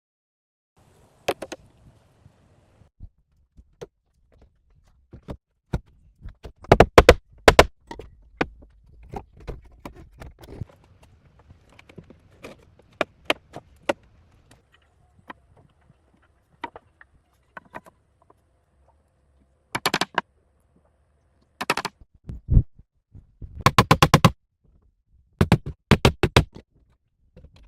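Irregular knocks and strikes of hand-tool building work, single blows mixed with quick clusters of several hits in a row, the loudest clusters about a third of the way in and near the end.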